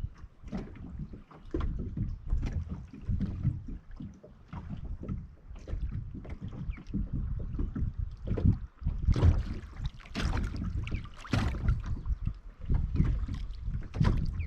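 Water lapping and slapping against the hull of a small plastic boat, with wind buffeting the microphone: irregular knocks and splashy slaps over a low rumble, busier and louder in the second half.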